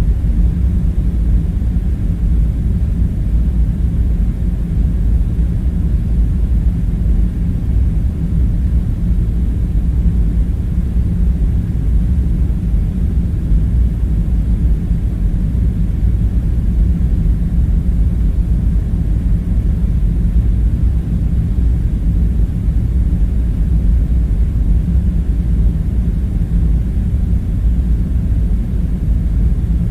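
Steady, deep, unchanging rumble with no separate events: a droning background ambience.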